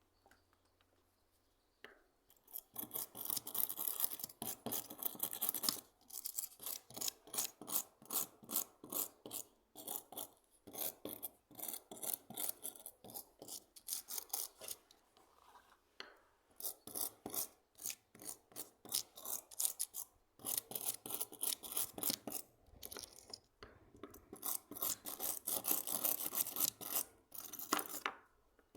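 Abrasive hand strokes on a hand plane being restored: rhythmic back-and-forth scraping, about two strokes a second, starting about two seconds in and pausing briefly a few times.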